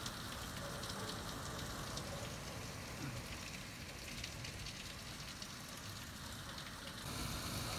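Heavy rain falling on woodland, a steady hiss with many fine drop taps, turning a little louder about seven seconds in.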